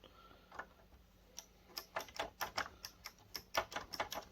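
Light, sharp clicks of a screwdriver working a small screw out of a plastic projector case: a few scattered clicks, then a faster run of about four or five a second.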